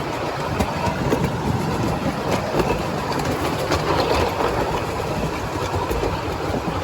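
Miniature railway train running along its track, heard from on board: a steady rumble of the wheels on the rails with scattered clicks.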